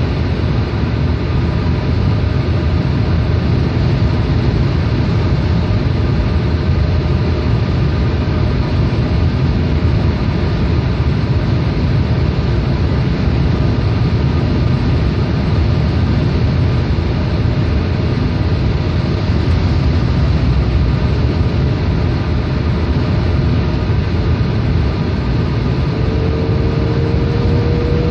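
A Peugeot 308 being driven: steady engine and road noise. Near the end a rising whine comes in.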